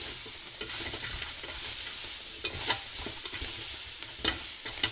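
Roasted veal bones and vegetables sizzling in a hot stainless steel pot as they are stirred, with a few sharp knocks from the stirring.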